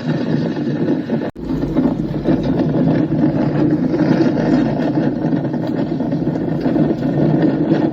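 Steady loud rumble, strongest in the low-mid range, with a sudden brief cut-out just over a second in before it carries on.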